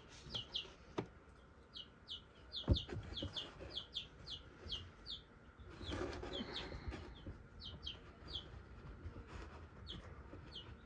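A bird peeping over and over in short, high, falling notes, about two or three a second, thinning out toward the end. One sharp knock comes about three seconds in.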